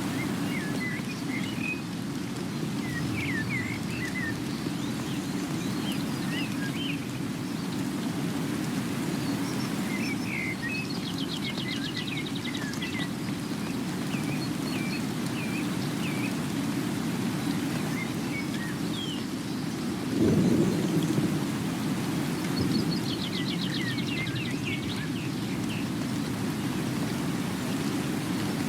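Steady rain with birds chirping over it, including two quick trills. About twenty seconds in, a brief low rumble swells louder, like distant thunder.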